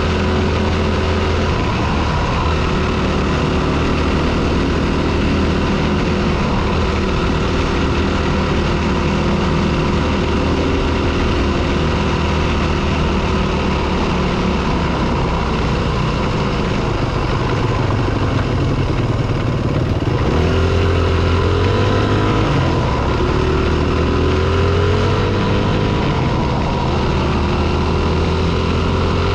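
Single-cylinder four-stroke dirt bike engine running under way at a steady pitch, then revving up several times in the second half as it accelerates.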